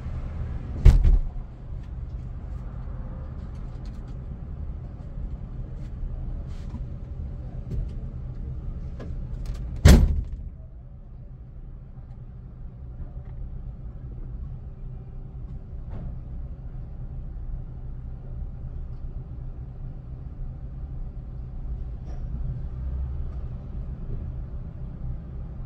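Car running with a steady low rumble, with two loud thumps about a second in and again about ten seconds in.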